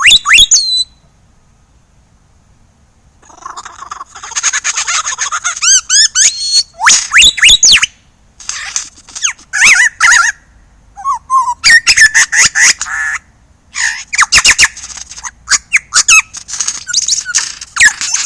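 Superb lyrebird singing: a sharp rising whistle, a short pause, then a long, loud run of varied song. The song mixes sweeping whistles, rapid rising notes and quick trains of click-like notes.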